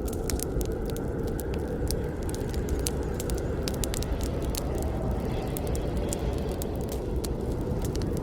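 Campfire burning: a steady low rush of flames under frequent sharp crackles and snaps from the wood.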